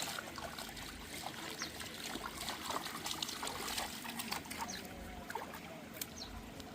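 Water trickling, a dense stream of small irregular splashes.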